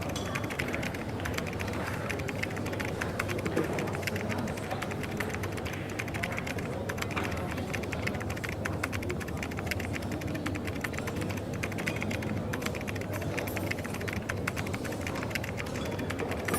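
Rapid, continuous typing on a keyboard, with dense clicks, over the steady low murmur of coffee-shop background noise.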